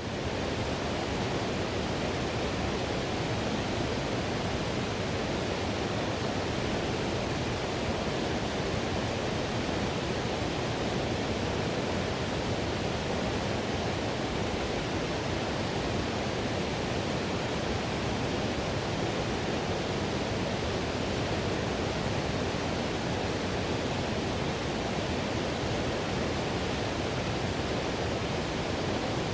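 Whitewater on the Payette River rushing steadily, a dense, even wash of water noise that never lets up, its weight in the lower range.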